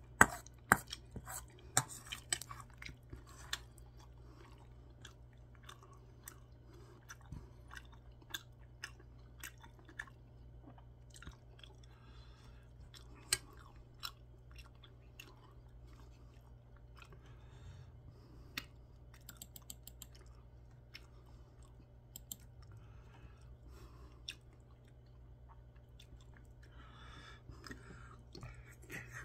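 Close-up chewing and mouth sounds of someone eating soft curry rice with spicy tuna, with a few sharp clinks of a metal spoon against a stainless steel bowl in the first few seconds, over a steady low hum.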